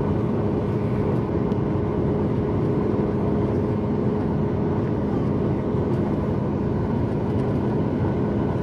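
Steady engine and airflow noise inside the cabin of a Boeing 737 MAX 8 with CFM LEAP-1B turbofans: a constant rushing rumble with a low two-note hum and no change in pitch.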